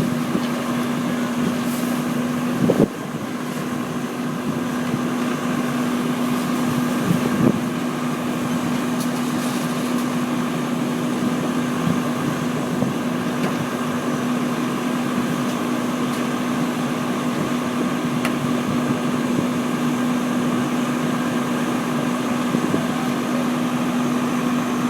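An engine idling steadily with a constant hum. Two short knocks stand out, about three seconds in and again about seven and a half seconds in.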